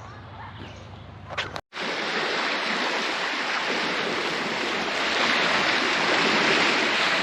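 A quiet low hum that cuts off about a second and a half in, followed by a loud, steady rushing noise.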